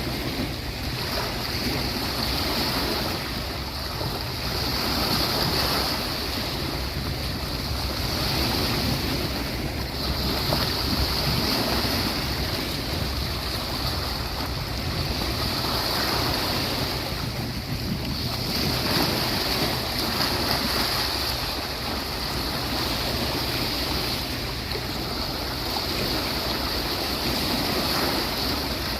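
Sea waves washing onto a beach, a steady rush of surf that swells and eases every few seconds, with some wind.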